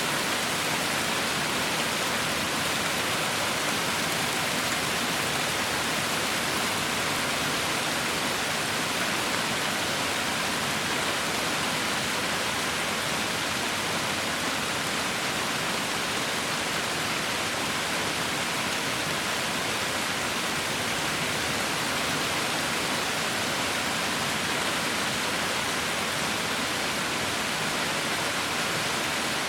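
Heavy rain falling in a steady, even hiss with no distinct drops or thunder.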